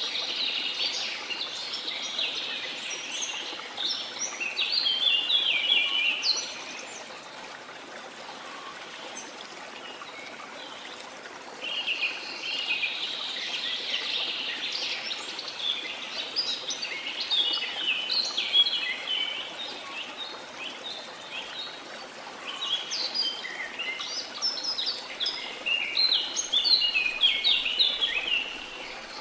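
Steady running water under bird song. The birds chirp and trill densely for the first six seconds or so, fall quiet for about five seconds while only the water is heard, then sing again from about twelve seconds on.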